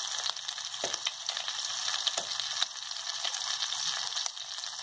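A slice of egg-and-yogurt-soaked French toast sizzling in butter and a little oil in a frying pan: a steady crackling hiss with a few sharper pops.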